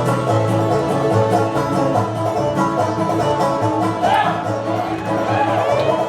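Live acoustic string band playing an instrumental old-time/bluegrass tune, banjo and fiddle leading over a stepping bass line.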